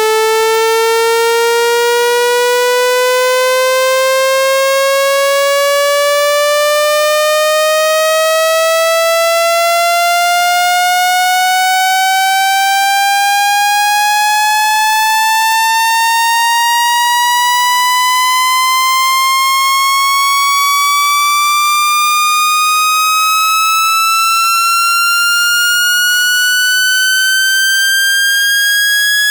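Generated speaker-cleaning tone: one loud, buzzy electronic tone rising slowly and steadily in pitch, from a mid hum to a high whine, played to shake trapped water and dust out of a phone or earphone speaker.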